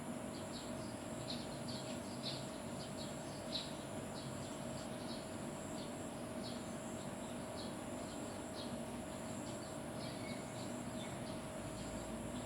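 Small birds chirping: short, high chirps, several in quick irregular runs, over a steady faint hum.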